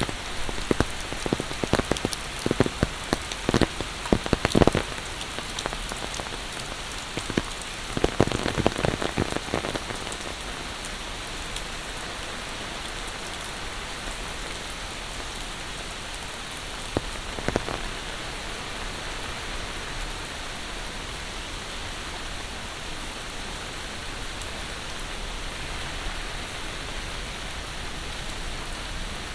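Steady monsoon rain falling, an even hiss of drops on the surfaces all around. Clusters of sharp, louder taps stand out in the first few seconds, again around eight to ten seconds in, and briefly once more near the middle.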